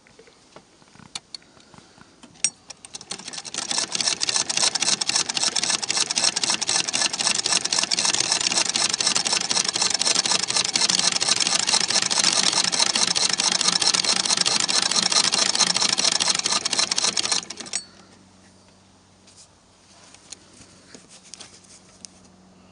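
Antique Singer 28K vibrating-shuttle sewing machine running fast and evenly for about fifteen seconds, with a rapid, steady chatter of stitches. A few light clicks come before it starts a couple of seconds in, it stops abruptly, and a few faint clicks follow.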